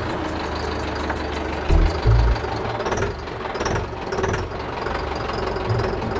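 Heavy vehicle engine running steadily, with a couple of louder low thumps about two seconds in.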